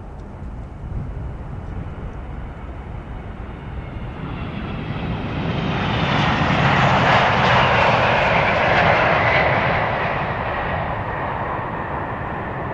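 Jet airliner passing close by, its engines' roar swelling to a peak about seven seconds in and then fading, with a faint whine over the rush.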